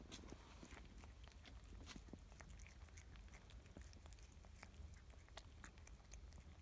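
Faint chewing by a farm animal: short irregular clicks and crunches over a low steady rumble.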